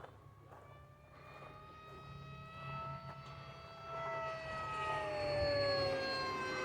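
Electric motor and propeller whine of an FMS Flash RC plane making a pass overhead. The whine swells in loudness from about four seconds in, and its pitch drops after the peak as the plane goes by.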